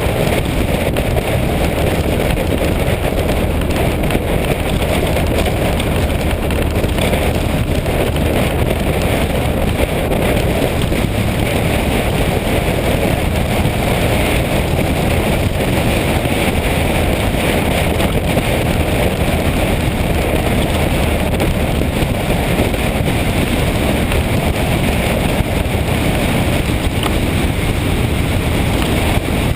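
Motorcycle on the move: steady engine and road noise with wind buffeting the microphone.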